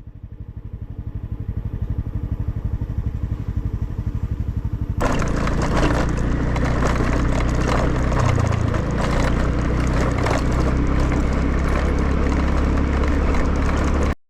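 Small moped engine running while riding on a bumpy road, a steady low pulsing that grows louder over the first few seconds. About five seconds in it changes to a louder rush of noise over the engine, which runs until it cuts off abruptly.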